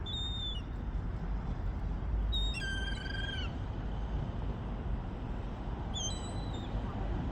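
Gulls calling: a short call near the start, a longer call about two and a half seconds in that drops slightly at its end, and another short call about six seconds in, over a steady low background noise.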